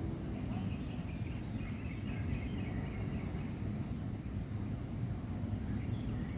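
Lakeside nature ambience: a steady low rumble under a continuous high insect drone, with faint bird chirps in the first half.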